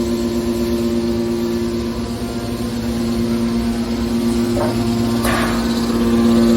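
Hydraulic aluminum scrap baler running: a steady, loud hum from its electric motor and hydraulic pump. A brief scraping hiss comes about five seconds in.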